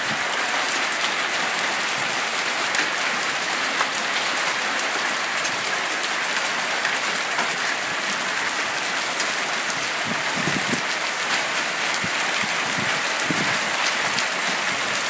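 Heavy hail coming down hard and steadily: a dense, continuous patter of hailstones striking the ground and hard surfaces.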